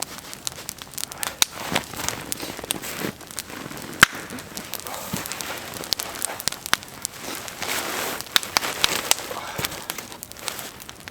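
Wood fire crackling, with irregular sharp pops and snaps, the loudest about four seconds in.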